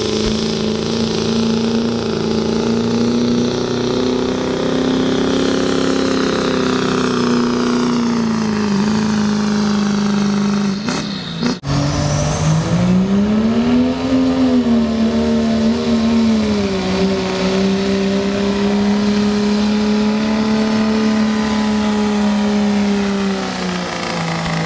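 Turbocharged diesel pickup engine pulling a sled at full throttle, held at steady high revs. About eleven seconds in it briefly drops off, then revs back up, and a high turbo whistle climbs and holds.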